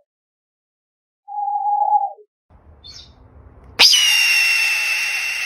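Bird calls: a short falling call about a second in, then a louder, steady high call that opens with a quick upward sweep and holds for about two seconds.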